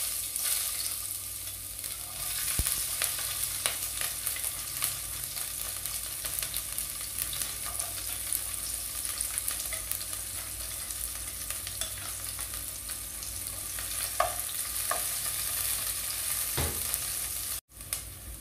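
Chopped ginger, garlic and green chillies sizzling in hot oil with cumin seeds in a nonstick pan: a steady hiss scattered with small crackles and pops. The sound drops out for an instant near the end.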